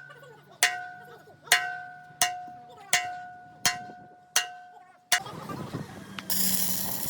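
A hammer striking steel six times at an even pace, roughly one blow every 0.7 s, each blow ringing on at a clear metallic pitch. The ringing cuts off about five seconds in, and a loud hissing noise starts near the end.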